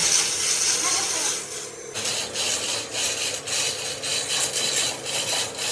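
Metal being rasped by hand with a file or abrasive on a machined part: a steady scraping at first, then quick back-and-forth strokes at about two to three a second from about two seconds in.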